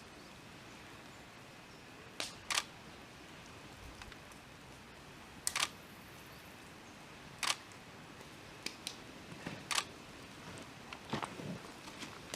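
Camera shutter firing in short separate clicks, some in quick pairs, about a dozen over the stretch, with a faint steady hiss behind.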